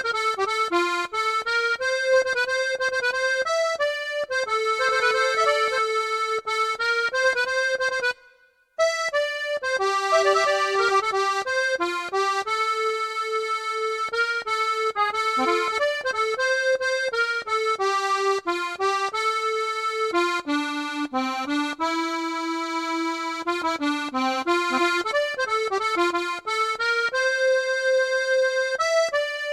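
Accordion playing a song melody in held, reedy notes over a soft, regular bass accompaniment. About eight seconds in, it breaks off for half a second.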